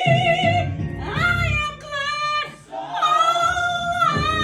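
A woman singing a gospel song in long held notes with a wide, wavering vibrato, phrase after phrase with short breaths between.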